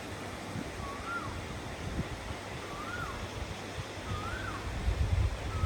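Wind rumbling on the microphone, with a bird repeating a short whistle that rises then falls, about every second and a half.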